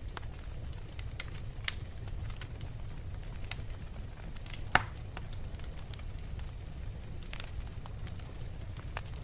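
Log fire burning in a fireplace: a steady low rumble of flames with scattered crackles and pops, the sharpest pop about halfway through.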